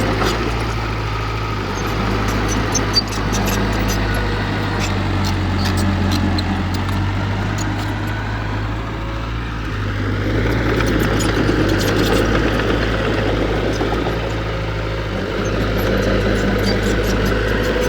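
Heavy earthmoving machinery's diesel engine running steadily, its level swelling and easing a little as it works, with a brief knock about three seconds in.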